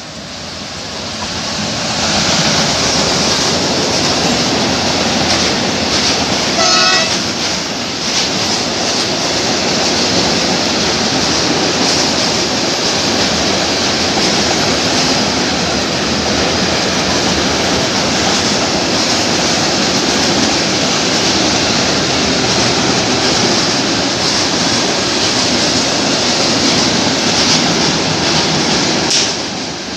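E6ACTd electric locomotive and a long train of tank wagons passing close by: a loud, steady rumble and rattle of wheels on rail, swelling over the first two seconds as the train arrives. A short pitched tone sounds about seven seconds in.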